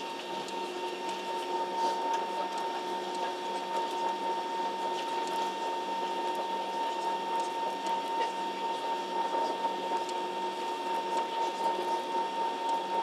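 Steady airliner cabin drone on the ground before takeoff, with a constant high whine over an even rushing hum.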